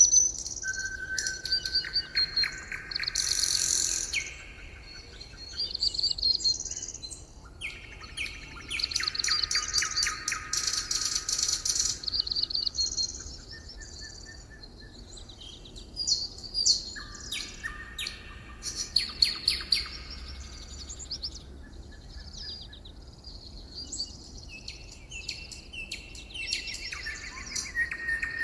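Several songbirds singing at once, in overlapping rapid trills and repeated chirps, with short pauses between phrases.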